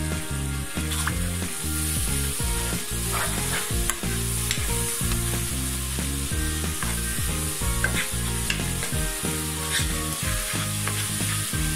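Onion and spice masala sizzling in oil in a nonstick wok while a spoon stirs and scrapes through it, with scattered clicks of the spoon against the pan. The spices are being fried down (bhuna) with a little water added.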